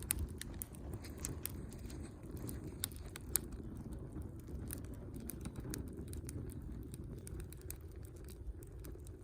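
Campfire burning: wood crackling with irregular sharp pops over a low steady rumble. The pops come thickest in the first few seconds, the loudest about three and a half seconds in.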